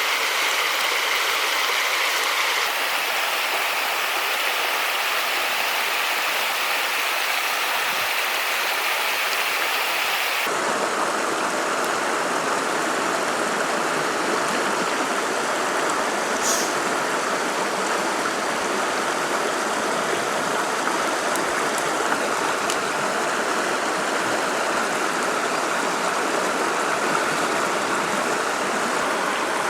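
River water rushing, a steady, even noise that changes abruptly about ten seconds in and then carries on with less hiss.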